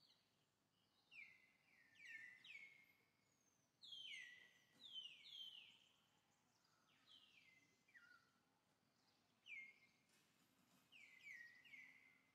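Faint bird calls: short whistled notes sliding down in pitch, coming in quick runs of two or three, repeated several times over a soft background hiss.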